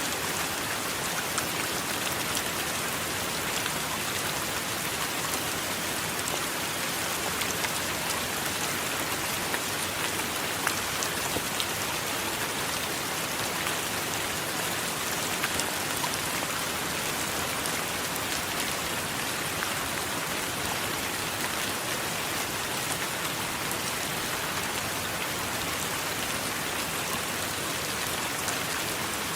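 Steady heavy rain, with scattered sharp drops ticking on a surface.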